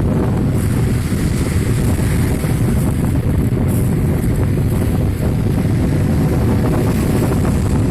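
Strong wind buffeting the microphone: a loud, steady low rumble, with sea waves washing on the shore beneath it.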